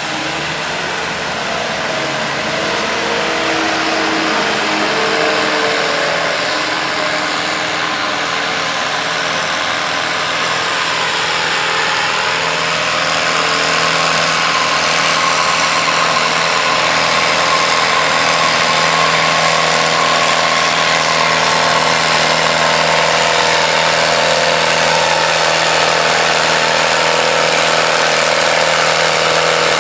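David Brown 1410 tractor's diesel engine running hard under load as it pulls the weight-transfer sled down the track. It holds a steady note that grows a little louder through the first half.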